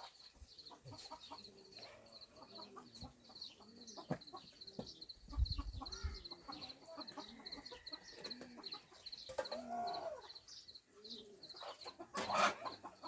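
Chickens clucking in short repeated calls, with a rapid high-pitched chirping running underneath. A louder call comes about ten seconds in and another near the end, and there is a dull low thump around the middle.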